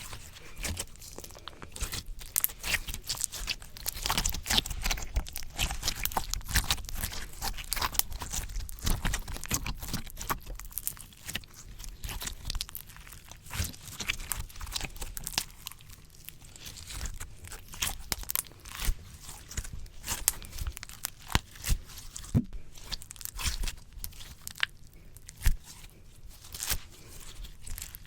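Slime squished, stretched and pulled against a microphone, giving a continuous run of sticky crackles, small pops and tearing sounds at an uneven pace.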